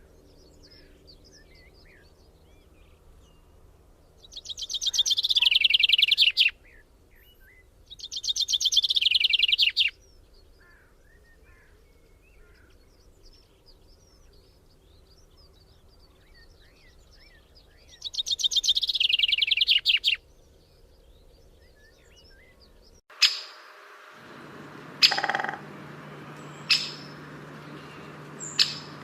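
A bird sings three times: each song is a fast trill of rapidly repeated notes that grows louder and breaks off abruptly. Faint chirps of other birds come between the songs. Near the end the background changes suddenly, and short, sharp calls come every second or two.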